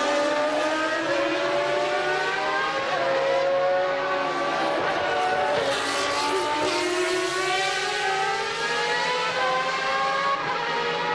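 Engines of 1989 Formula One cars, naturally aspirated 3.5-litre units, running at racing speed. Several high engine notes climb and fall with gear changes, with one note dipping and rising again midway.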